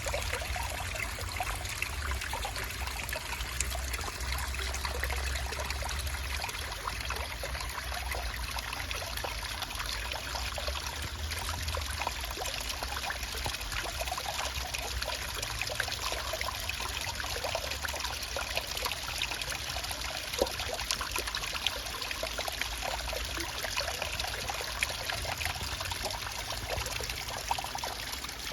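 Stream water trickling steadily, with many small splashes and drips over a low rumble.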